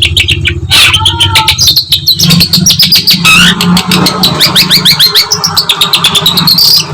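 Long-tailed shrike (condet/pentet) singing a fast, varied song of rapid clicking chirps and rising whistled notes, full of mimicked phrases.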